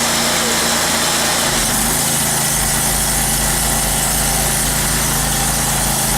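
A 25-horsepower Honda engine driving a 3,000 psi hot-water pressure washer runs steadily under the loud hiss of the spraying wand, with the burner lit to heat the water. About a second and a half in, a deeper steady hum joins the engine sound.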